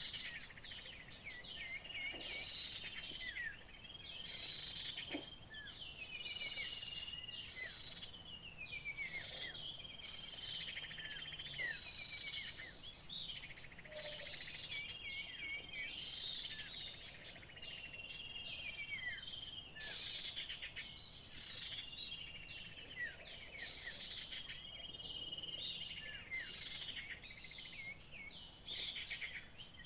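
Small songbird calling over and over in quick phrases of high chirps and trills, many sweeping downward, repeated every second or two, over a steady high insect-like buzz.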